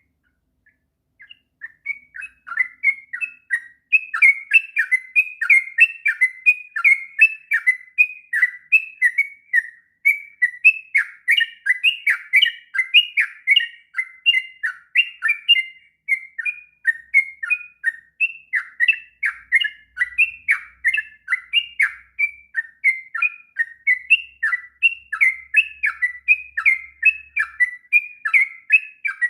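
Yellow-vented bulbul (trucukan) singing a long, unbroken run of quick notes, several a second, in the continuous 'ngropel' style. The song starts about a second in.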